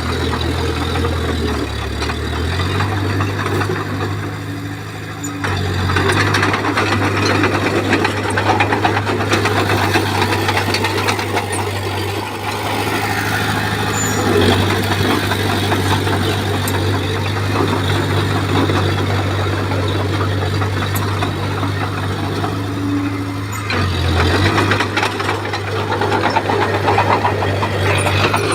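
Komatsu bulldozer's diesel engine running steadily under load, with a dense clatter over it. The engine note shifts in pitch a few times as the load changes.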